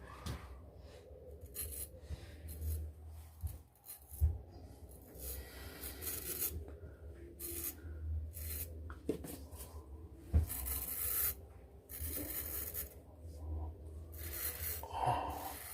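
Shaving brush working a thick lather of shaving soap, a brushy rasping that comes and goes in spells of a second or two.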